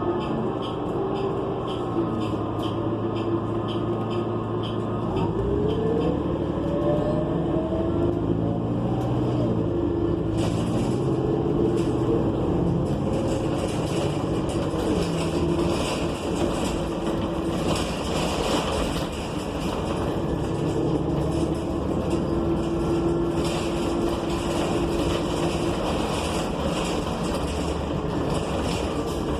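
Inside a New Flyer XN40 city bus under way: the Cummins Westport ISL G natural-gas engine and Allison B400R transmission whine rising in pitch as the bus accelerates about five seconds in. The whine then holds a steady tone, with road and body noise growing from about ten seconds in.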